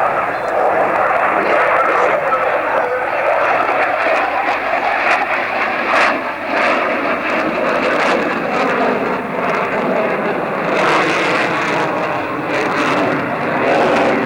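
Aircraft engine noise from a fixed-wing plane in flight, a continuous loud rushing that stays at an even level.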